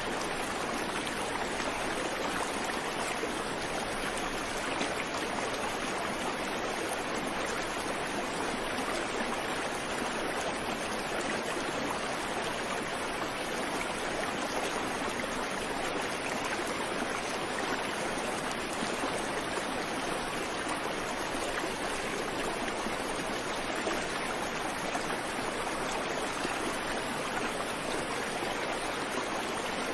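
Creek water flowing over stones in a steady, even rush, with no birdsong.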